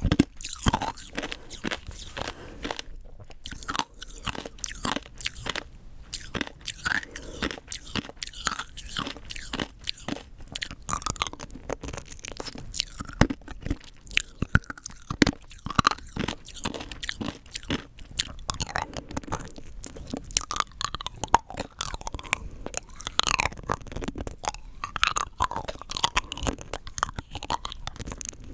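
Rock candy being bitten and chewed close to the microphone: a dense, irregular run of sharp crunches and cracks as the hard sugar crystals break between the teeth.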